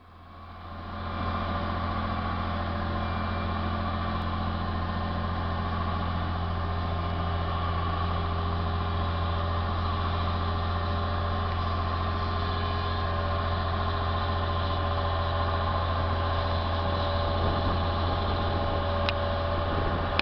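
A vehicle engine running steadily at an even pitch, with no revving. It swells up over the first second and then holds level.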